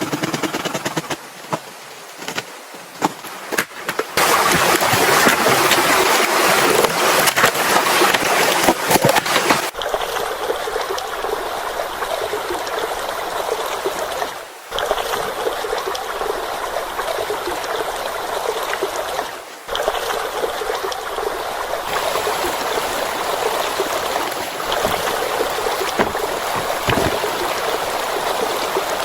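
Running water, a steady rushing flow that changes abruptly several times, with scattered sharp clicks in the first few seconds.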